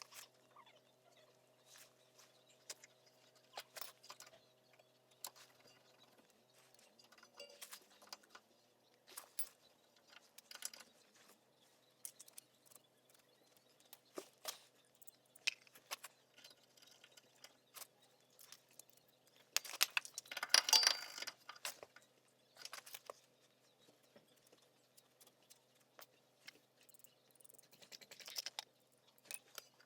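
Scattered light clicks and knocks of small tools and metal parts being handled, with a denser, louder bout of clattering about twenty seconds in.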